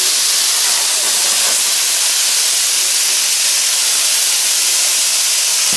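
Many hand-held bamboo-tube fireworks (tachibana), packed with gunpowder, spraying fountains of sparks at once: a loud, steady hiss.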